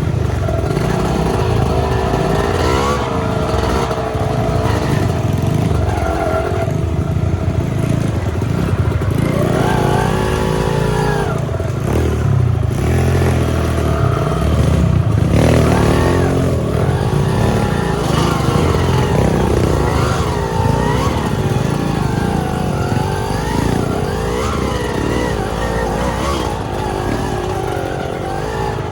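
Trail motorcycle engine running under load, revving up and down repeatedly as the throttle is worked.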